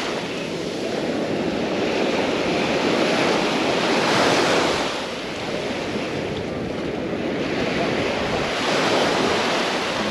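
Sea waves washing onto the shore, the rush of water swelling and falling back, with surges about four and nine seconds in. Some wind noise on the microphone is mixed in.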